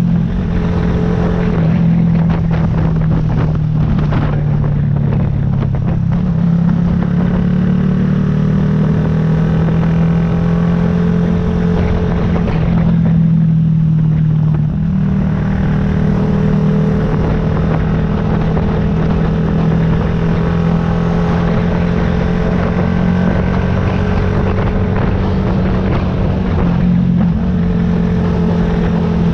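Yamaha YZF-R125's 125 cc single-cylinder four-stroke engine running steadily under way, its pitch shifting a few times as the revs change.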